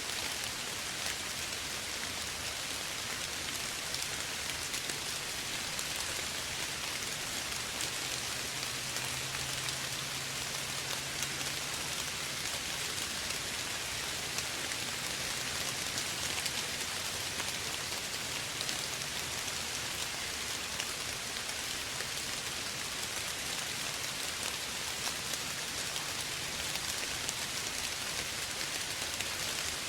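Soft rain falling steadily, a dense even patter of many small drops hitting a surface.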